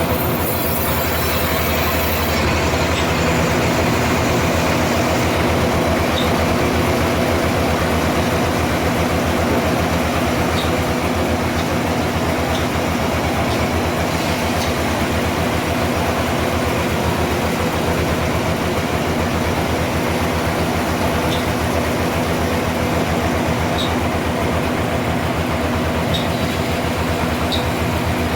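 Sawmill machinery running steadily, a constant motor hum with a pulsing low drone and a few faint high ticks now and then.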